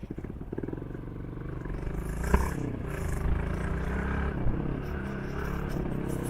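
Motorcycle engine running while riding, with close, even firing pulses at first, then growing louder with wind and road noise. There is a sharp knock a little over two seconds in.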